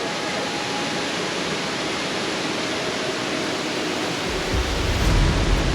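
Waterfall rushing, a steady dense hiss of falling water. About four seconds in, a strong low rumble joins it.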